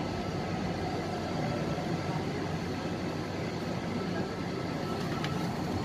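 MTR West Rail Line C-Train heard from inside the carriage, a steady running rumble with a faint whine as the train pulls into a station platform.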